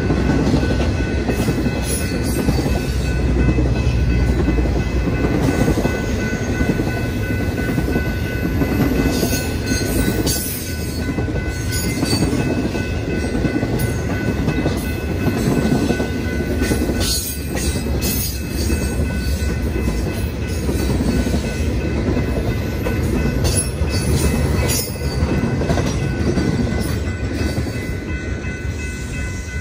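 A train rolling past: a loud, steady rumble of railcars with scattered clicks of wheels over the rails and a thin, steady high whine.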